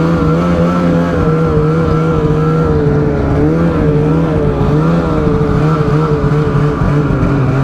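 Snowmobile engine running under way, its pitch holding roughly steady with small wavering rises and falls in revs.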